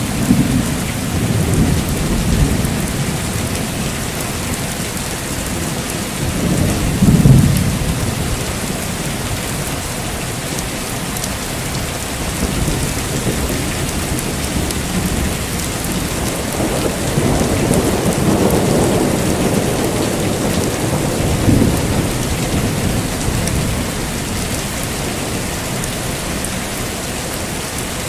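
Steady heavy rain with rolling thunder: a sharp, loud rumble about seven seconds in and a longer rolling peal from about sixteen to twenty-two seconds in.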